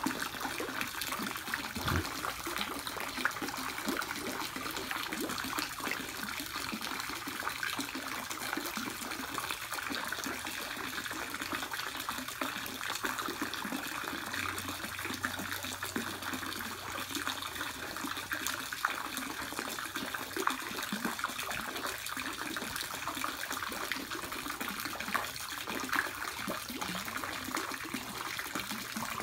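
Water running steadily, a continuous trickle or small flow of water.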